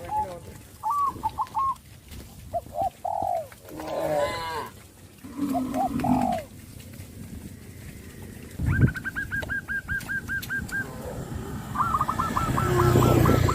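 Animal calls: several short pitched calls in the first half, then twice a rapid run of high repeated notes, about eight a second.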